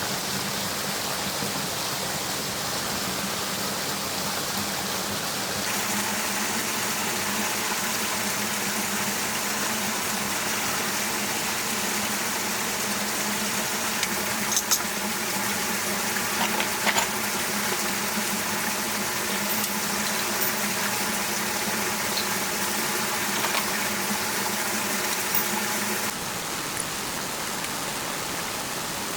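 Water rushing steadily, with a low steady hum beneath it. It grows louder about six seconds in and drops back near the end, with a few light clicks in the middle.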